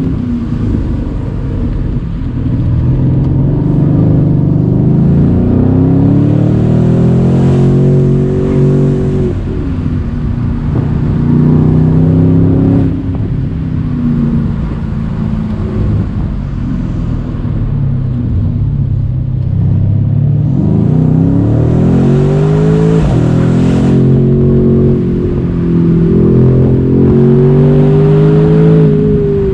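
Mercedes-AMG C63's 4.0-litre twin-turbo V8 pulling hard through the gears: the engine note climbs, then drops sharply at each upshift, several times over. Wind noise comes through with the roof open.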